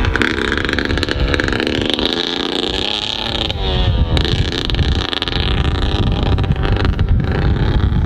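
Dirt bike engine running close by, its pitch wavering briefly about three and a half seconds in, with low wind buffeting on the microphone growing stronger in the second half.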